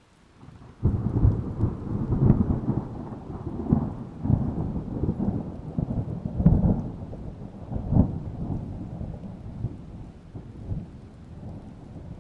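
Thunder: a sudden clap just under a second in, then rolling rumbles with several sharp cracks that slowly die away, with rain underneath. Another roll of thunder begins right at the end.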